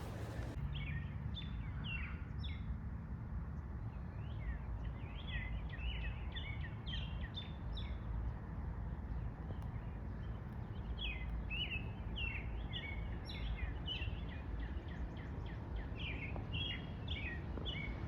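Small birds chirping over and over in short, high notes, above a steady low rumble of outdoor background noise that is the loudest part.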